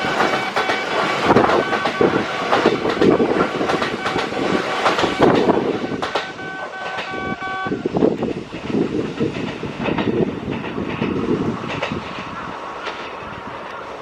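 Kintetsu train running past on the tracks, wheels clattering over the rail joints. A steady high tone sounds over it and stops about eight seconds in, and the train noise then eases off.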